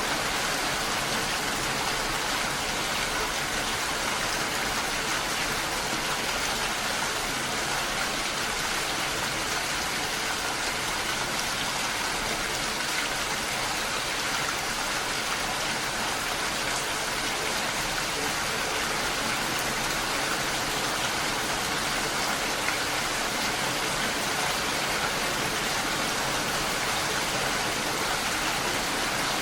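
Steady rain falling, a constant even hiss without pauses or changes.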